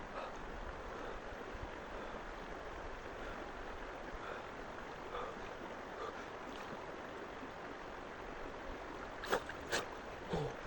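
Water lapping and sloshing steadily, with two sharp splashes close together near the end.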